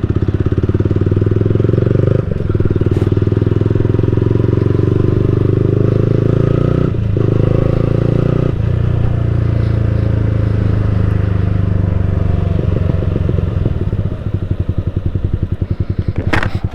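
Motorcycle engine running through an aftermarket Leo Vince GP Corsa exhaust, a steady deep pulsing exhaust note. It dips briefly about 2, 7 and 8.5 seconds in, and there is a short sharp sound near the end.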